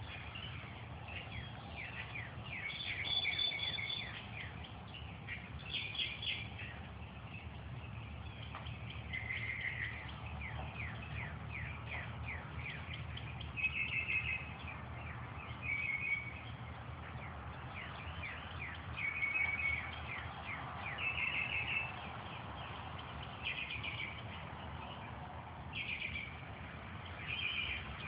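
Several songbirds singing: short repeated song phrases every second or two over a steady chatter of quick chirps, with a low, steady rumble underneath.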